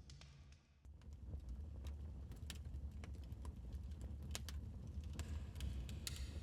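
Wood fire in a fireplace crackling, with irregular sharp pops and snaps over a low steady rumble. The sound drops away briefly under a second in, then resumes.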